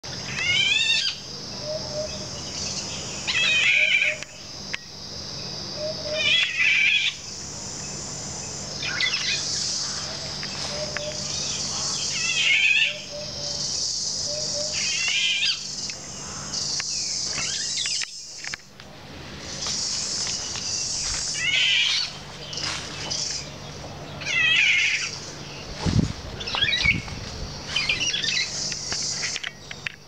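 A songbird singing short warbling phrases, one every two to three seconds, over a steady high-pitched drone of insects.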